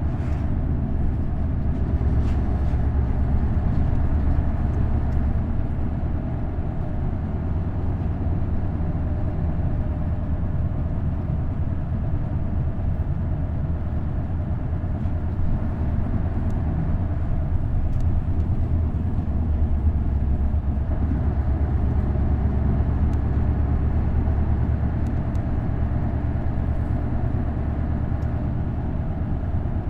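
Isuzu Erga city bus with a V8 diesel engine and five-speed manual gearbox, heard from inside the cabin while under way, the engine running steadily.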